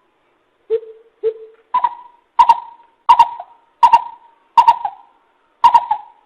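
Coucal (bìm bịp) calling: a run of about eight deep hooting notes, roughly one and a half a second, the first two lower and the rest higher in pitch.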